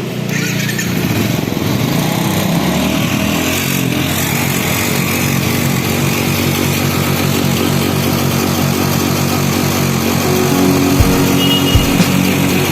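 A small engine running steadily, with a few low thumps near the end.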